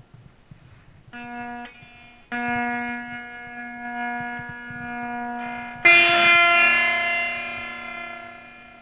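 Electric guitar played through an octave fuzz pedal: a few single notes with long, buzzy sustain, the last and loudest struck about six seconds in and slowly ringing out. The repaired pedal is passing signal cleanly after its short was fixed.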